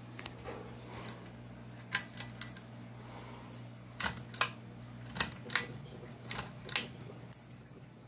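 Evergo 36-inch ceiling fan's motor humming steadily, with a string of sharp, irregular clicks over the hum.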